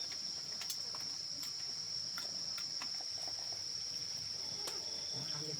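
Steady, high-pitched insect chorus of crickets, with a few faint clicks and taps.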